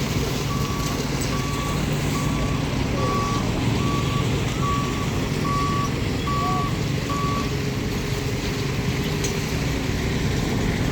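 A vehicle's reversing alarm beeps nine times at a steady pitch and even pace, then stops about three quarters of the way in, over the steady low hum of a running engine.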